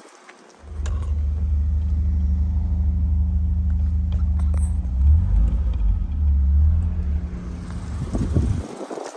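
1973 BMW 2002 Baur's four-cylinder engine idling steadily after a cold start, a low even hum that swells briefly about five seconds in and stops abruptly near the end.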